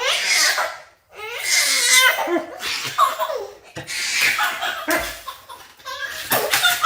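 People laughing hard in repeated bursts of belly laughter, with a brief pause about a second in.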